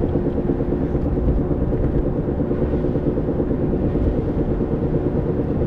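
Steady running noise from a 1993 Honda Civic EX coupe with an even hum held on one pitch, the noise the owner takes for a bad bearing.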